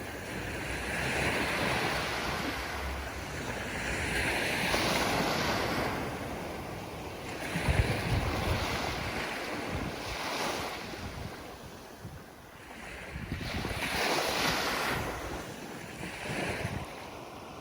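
Ocean waves breaking and washing up the shore, the surf swelling and falling back every few seconds, with one heavier, deeper break about eight seconds in.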